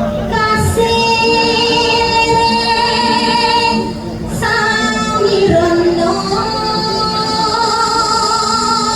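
Javanese sinden (female gamelan vocalist) singing long, high held notes over steady instrumental accompaniment, with a breath break about four seconds in and a downward glide into the next phrase.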